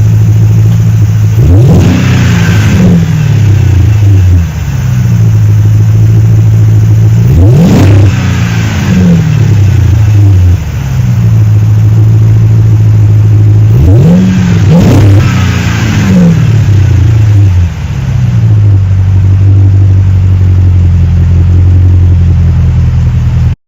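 2006 Dodge Magnum R/T's 5.7-litre Hemi V8 through a MOPAR exhaust with headers and a valved muffler, idling steadily and revved hard a few times: once near the start, once about a third of the way in, and twice in quick succession past the middle, each rev dropping back to idle. The sound cuts off suddenly at the end.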